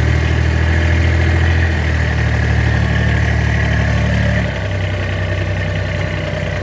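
A car engine running steadily, dropping in level and pitch about four and a half seconds in.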